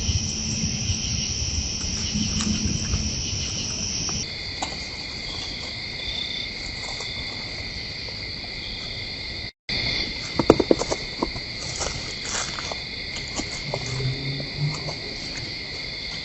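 Chorus of insects trilling steadily at several high pitches, the mix of pitches changing about four seconds in. The sound breaks off for a moment near the middle, and a few sharp clicks and knocks follow.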